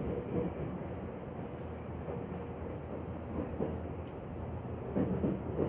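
Tokyo Metro Tozai Line train running as heard from inside the car: a steady rumble of wheels on rail, with a few knocks over rail joints about five seconds in.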